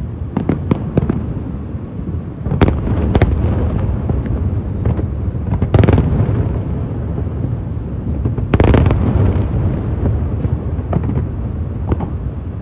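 Aerial fireworks display: shells bursting in a run of sharp bangs over a steady low rumble, with the loudest bursts at about two and a half, six and eight and a half seconds in, and smaller crackling reports between them.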